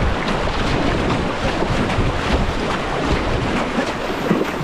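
Whitewater kayaks paddled hard from a standing start: paddle blades splashing and water rushing in a dense, unbroken wash, with wind buffeting the microphone.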